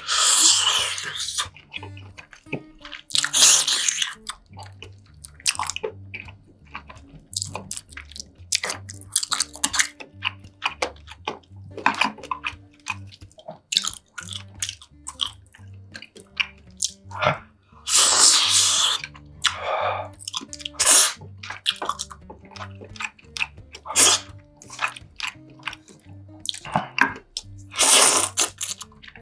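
Close-up eating sounds: utensils clicking on dishes, chewing, and several longer wet slurps or sips of soup, over soft background music.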